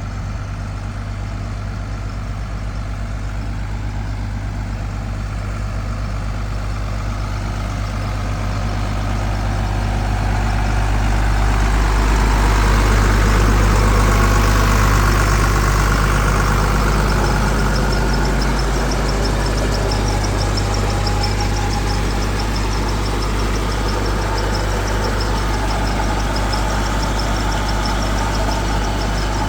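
Engine-driven irrigation water pump running steadily with a deep, even hum, growing louder toward the middle and then holding steady.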